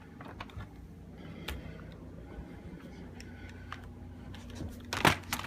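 Scattered plastic clicks and knocks from handling the Dyson DC50 vacuum's dust bin, with a louder knock near the end.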